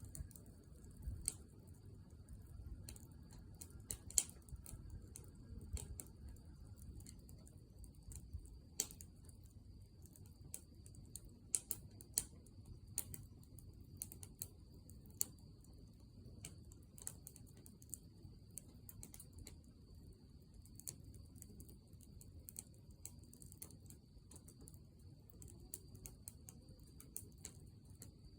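Wood fire crackling in a fire stand: irregular sharp pops, a few a second, over a low rumble of the flames, the loudest pops about 4 and 12 seconds in. A faint steady high tone runs underneath.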